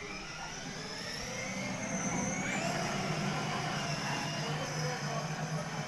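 The electric motor of a child's ride-on toy car running, a whine that rises in pitch over the first couple of seconds and then holds steady over a low hum.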